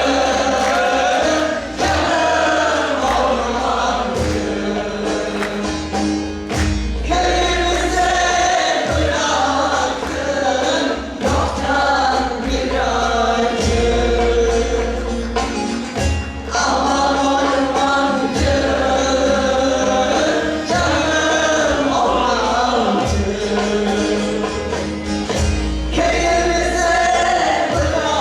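Turkish folk music (türkü) choir singing in unison with instrumental accompaniment and a regular percussion beat.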